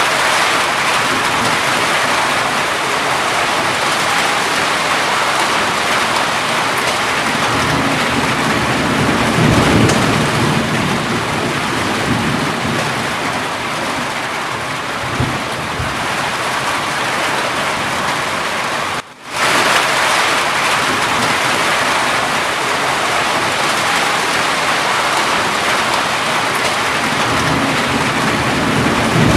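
Steady heavy rain falling, with low rolls of thunder swelling about a third of the way in and again near the middle. The sound cuts out for an instant about two-thirds of the way through.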